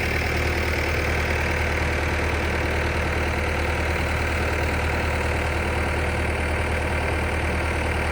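Engine running steadily at a constant speed with a low hum, from the rig powering the spraying.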